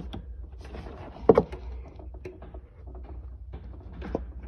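A plastic wiring-harness connector being worked loose and pulled off a golf cart's engine control unit: small clicks and rustles with one loud clack about a second in, over a low steady rumble. This is the unplugging done to hard-reset the ECU.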